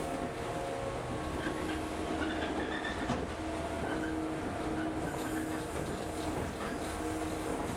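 A local train running, heard from inside the carriage: steady rumble of wheels on rail with a constant motor hum, and a few faint high wheel squeals in the first half.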